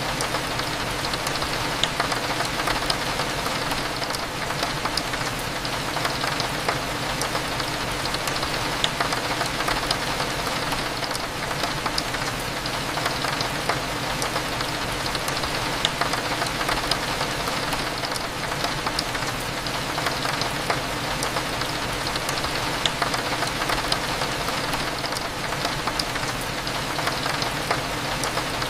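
Steady rain on a window pane, a dense patter of small drop ticks over an even hiss, with a low steady hum underneath.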